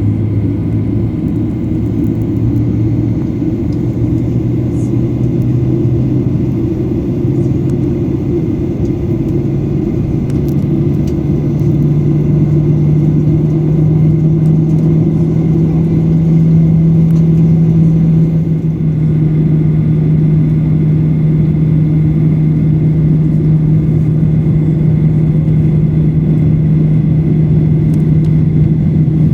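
Cabin noise inside a Boeing 737-800 on the ground before takeoff: a steady low rumble from its CFM56-7B engines, with a low hum that rises in pitch over the first half and then holds steady.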